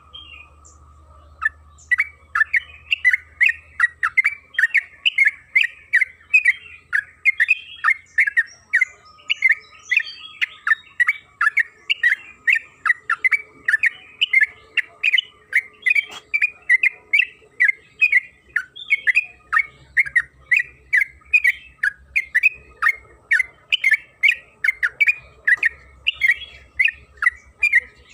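Yellow-vented bulbul (trucukan) singing a long unbroken run of short chattering notes, about three a second. The run starts about two seconds in.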